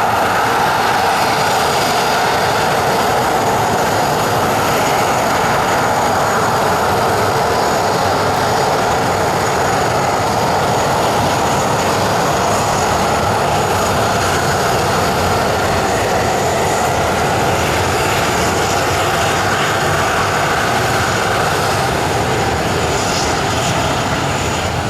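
Boeing 737-400's CFM56-3 turbofan engines running at high power: loud, steady jet noise that eases a little near the end.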